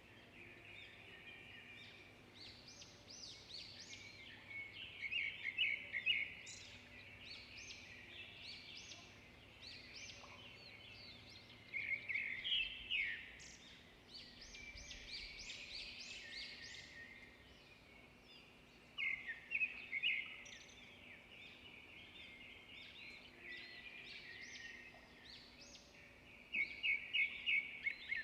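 Songbirds chirping and singing, several calls overlapping, with loud quick runs of repeated notes about twelve seconds in, again near twenty seconds, and near the end.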